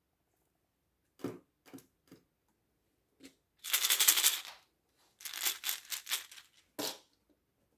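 Small hard objects clicking and rattling: a few separate clicks, then a dense rattling crackle for about a second, a quicker run of clicks, and a single knock near the end.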